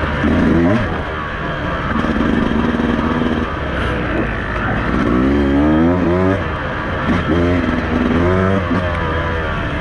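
Beta 200RR two-stroke enduro motorcycle engine being ridden on a trail, revving up and down with the throttle, its pitch climbing and dropping several times.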